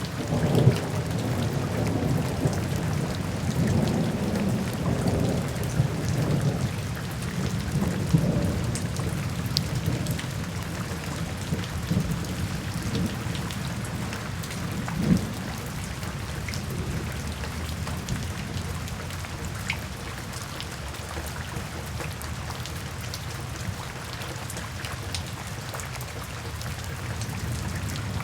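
Steady rain falling, with scattered nearby drops ticking. A low rumble of thunder rolls through the first half and dies away after about ten seconds. There is one louder sharp hit about halfway through.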